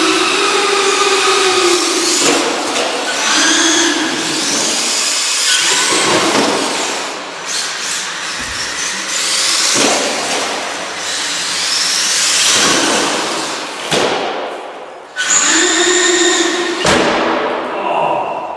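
Electric motors of RC trucks whining as they speed up and slow down over and over, the pitch rising and falling, with a few sharp knocks and tyre noise as the trucks drive and bump around.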